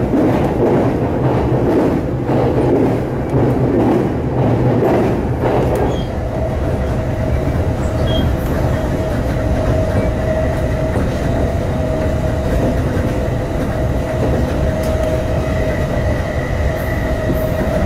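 Musashino Line electric commuter train running at speed, heard from inside the carriage: a steady rolling rumble of wheels on rail, with a constant whine joining about six seconds in.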